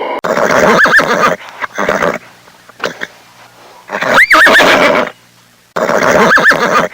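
Horse neighing: three loud whinnies of about a second each, with a wavering high pitch, and shorter, quieter sounds between them.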